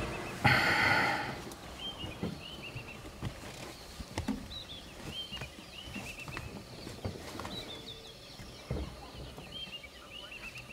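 Forest birds calling in short, repeated chirps, one after another every second or so. About half a second in comes a loud, harsh sound lasting about a second, the loudest thing heard, and a few soft knocks follow.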